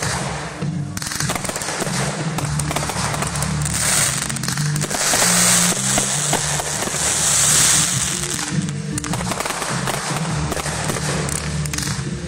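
Fireworks display going off in rapid succession: a dense run of popping and banging shell bursts, with a thick crackling hiss between about four and eight seconds in. Music plays underneath, its low notes steady.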